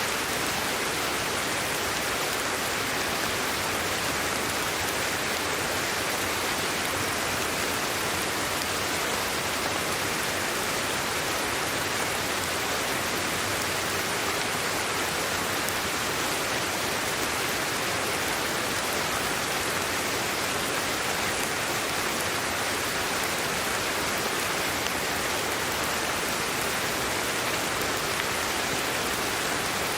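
Steady sleep-aid white noise: an even, unchanging hiss with no breaks or separate sounds.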